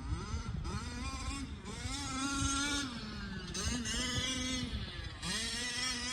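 Losi Promoto-MX RC motorcycle's electric motor whining, its pitch rising, holding and falling again several times as the throttle is worked.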